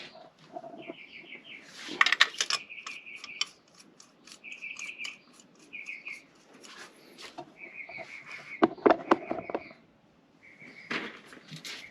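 A bird chirping in short repeated trilled phrases, over which come two bursts of sharp metallic clinking and clatter, about two seconds in and again about nine seconds in, like tools or parts being handled.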